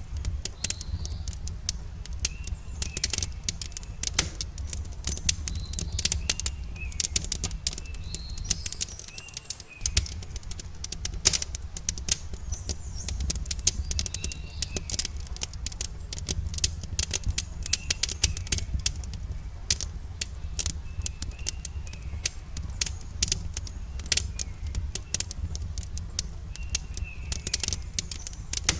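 Wood campfire crackling with many sharp pops and snaps over a steady low rumble. Small birds chirp briefly now and then.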